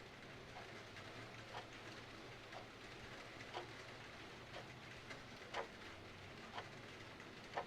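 Clock ticking evenly about once a second, faint, over a steady hiss of rain.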